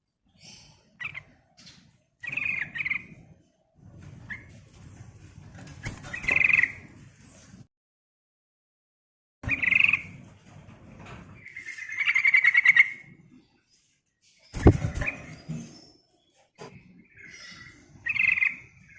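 Yellow-vented bulbul (trucukan) calling in short chattering phrases, with pauses between them. A sharp knock sounds once about fifteen seconds in.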